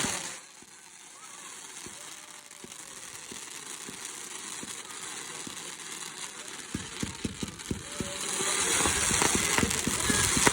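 Fireworks crackling with scattered small pops, growing denser and louder through the second half, with a hiss coming in near the end.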